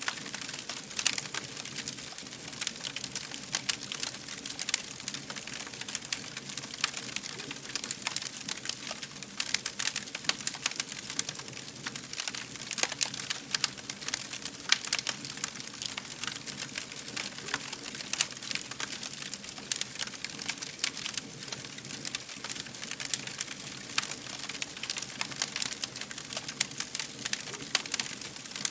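Wood fire burning with steady crackling: many small irregular snaps and pops over a soft hiss, with an occasional louder pop.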